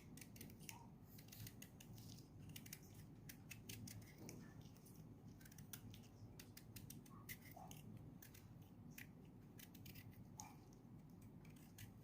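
Faint, quick scraping strokes of a blade peeling the skin off a whole eggplant, heard as many short crisp ticks.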